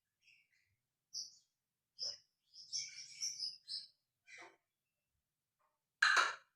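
Brinji kelabu (grey bulbul) singing: short separate chirps, a quick run of varied notes a little after two seconds in, and one loud harsh call near the end.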